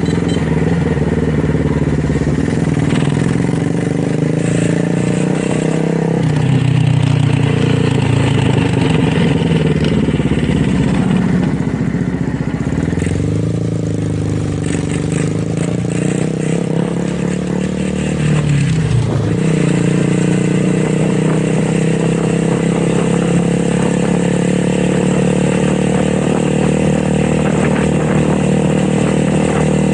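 Motorcycle engine running steadily, its note dipping and rising a few times between about six and twenty seconds in.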